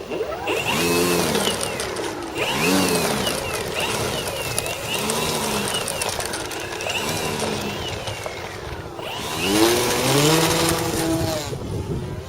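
Electric motor and propeller of an FMS Sbach 342 RC aerobatic plane in flight, whining up and down in pitch as the throttle changes. Gusts of wind rush on the microphone, loudest near the start and again near the end.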